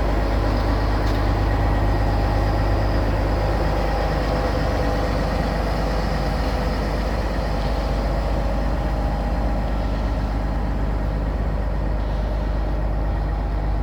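Western Star 4900SA hydrovac truck running steadily at idle: a steady low drone with a few constant hum tones above it.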